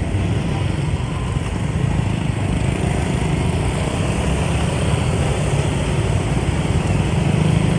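Motorbike engine running steadily while riding in dense motorbike traffic, with a continuous low drone of many engines and road noise.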